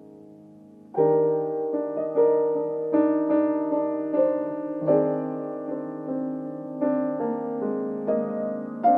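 Solo keyboard instrument playing a slow melody over held chords. A quiet held chord fades for the first second, then a loud new phrase begins, with a fresh note struck about every half second to a second.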